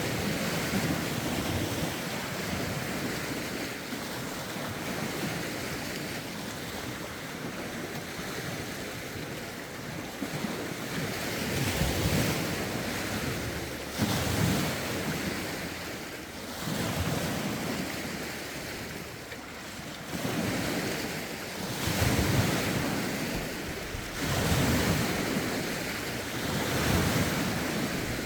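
Lake waves washing onto the shore in repeated surges every two to three seconds, with wind buffeting the phone's microphone.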